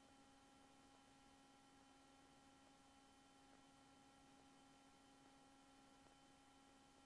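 Near silence: a faint, steady electrical hum made of a few fixed tones, with light hiss.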